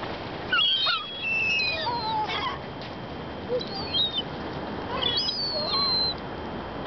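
Seagulls calling while being fed bread: short, high, gliding cries from several birds, overlapping at times, with one longer drawn-out call about five seconds in.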